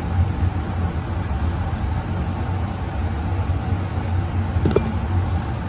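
Vintage Sears ceiling fan running on medium speed, its motor giving a steady, pronounced low hum. A faint short click comes near the end.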